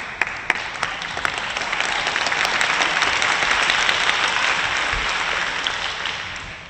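Arena audience applauding after a point in a table tennis match. The clapping swells over the first couple of seconds, holds, then dies away near the end, with a few sharp separate claps at the start.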